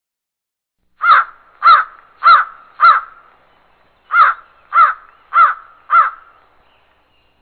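Bird-call sound effect: eight loud calls in two series of four, about 0.6 s apart, the first series starting about a second in and the second after a pause of about a second.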